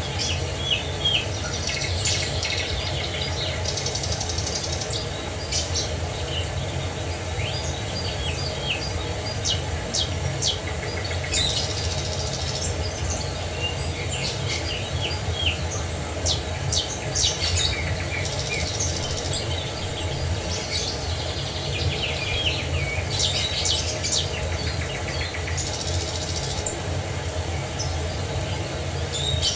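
Songbirds chirping and singing in short, repeated calls throughout, with a buzzy high trill every few seconds, over a steady low rumble.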